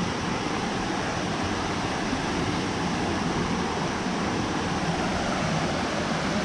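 Steady rush of water pouring over waterfall cascades.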